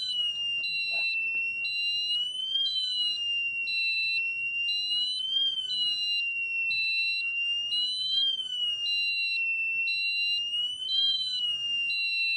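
Wireless fire alarm sounders going off: a loud, piercing high tone that swells up slightly about every three seconds, overlapped by a second, higher tone beeping on and off a little faster than once a second.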